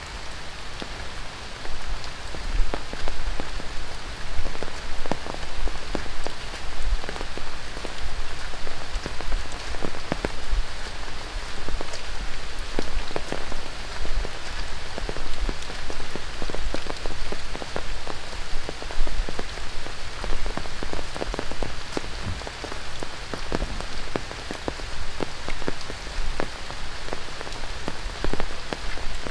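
Steady rain falling through rainforest foliage onto the trail, with many close, sharp individual drops pattering among the even hiss. It grows louder about two seconds in, then holds steady.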